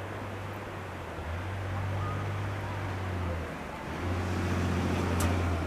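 Class 37 diesel locomotive's English Electric V12 engine running with a low, steady drone, getting louder about four seconds in.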